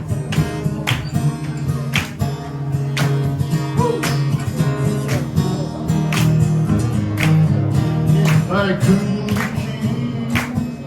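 Acoustic guitar strummed in a regular rhythm, with a voice singing over it.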